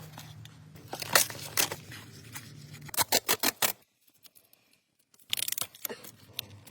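Masking tape being pulled off the roll and torn, in short sharp crackles and rips. There is a break of near silence in the middle.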